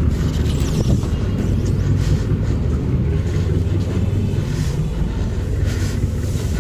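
Steady low rumble of a river passenger boat's engine, with wind on the microphone.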